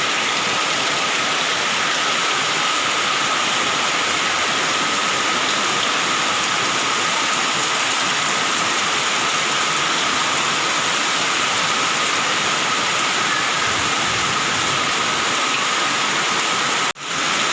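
Heavy rain pouring steadily in a dense, even hiss, with a momentary break near the end.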